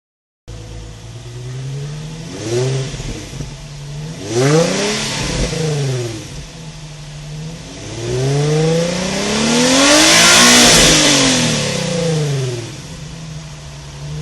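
Nissan 350Z's 3.5-litre V6 through an aftermarket exhaust, idling and being revved while stationary. There are two short throttle blips, then a longer rev that climbs and falls back to idle.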